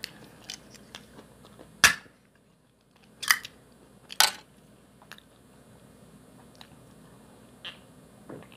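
A person chewing and crunching food, with a few sharp clicks and knocks, the loudest about two, three and four seconds in, and a brief silent gap just after the first one.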